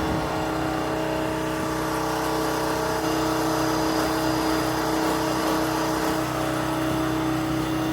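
An engine running steadily at a constant speed, its pitch unchanging.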